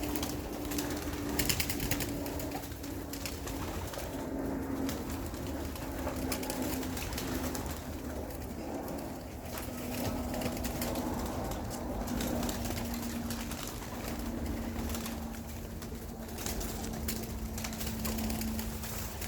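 Young racing pigeons cooing in and around their loft, with scattered light clicks and taps.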